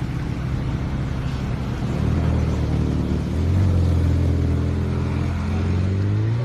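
Ferrari F8 Tributo's twin-turbo V8 running at low revs, a steady low note that grows louder about three and a half seconds in and rises slightly in pitch near the end.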